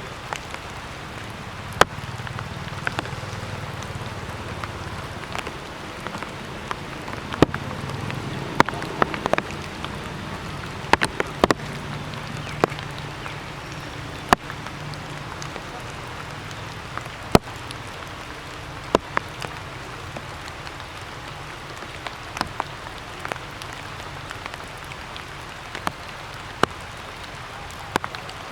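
Water drops falling from wet trees after rain, sharp drip impacts at irregular intervals over a steady hiss. A low hum runs under it for the first half.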